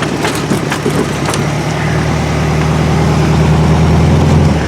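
VW dune buggy engine running at low speed, a steady low drone that grows a little louder, with a few sharp clicks in the first second and a half. It stops right at the end.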